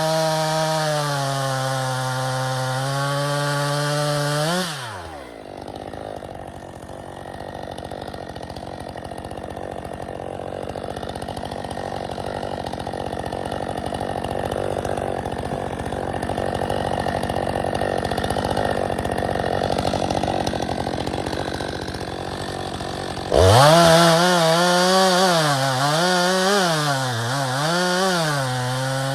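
Stihl 462 chainsaw on its stock muffler, running at full throttle in a cut, its engine pitch sagging a little under load. About five seconds in it drops abruptly to idle. Near the end it is throttled up again into another cut, the pitch wavering up and down as the chain bites.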